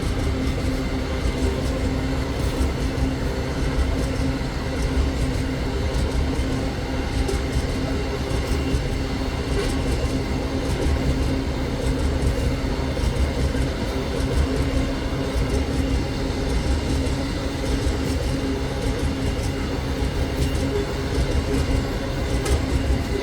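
Freight train: a steady, unbroken rumble with a steady hum in it.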